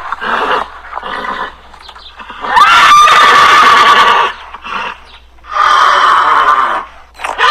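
Horse neighing in a series of calls. The longest, about two and a half seconds in, rises in pitch and then holds steady for over a second, and another long call follows near the end.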